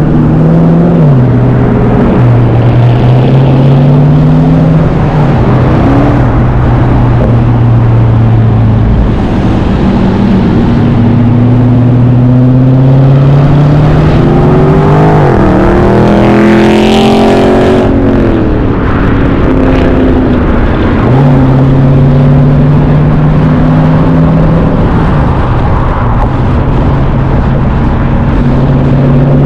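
Car engines running loud, the main engine note stepping up and down in pitch every few seconds. About fourteen to nineteen seconds in, another engine rises and then falls in pitch, like a car passing close by.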